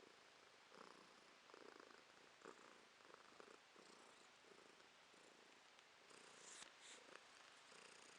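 Domestic cat purring faintly, the purr pulsing with each breath in and out.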